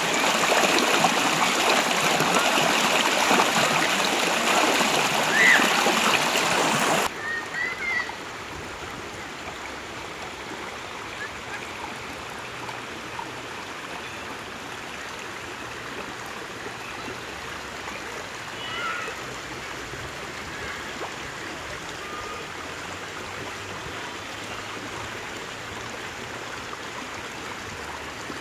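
Water of a small stream running over stones: a loud, full rush that cuts suddenly about seven seconds in to a quieter, softer flow, with a few faint chirps.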